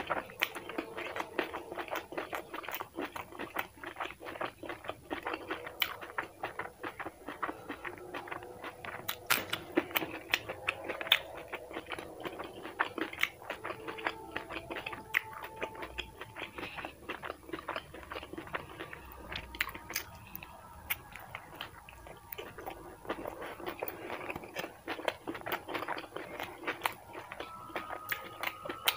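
A person chewing and crunching a fried chicken samosa close to the microphone, with many small, irregular mouth clicks throughout.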